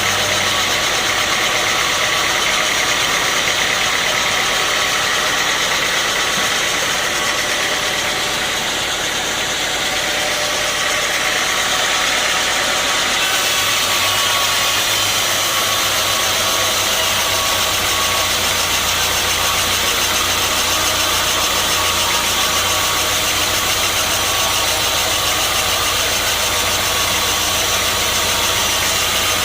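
Sawmill machinery running steadily: an engine-driven saw with a dense, continuous mechanical noise. A deeper hum comes in about halfway through.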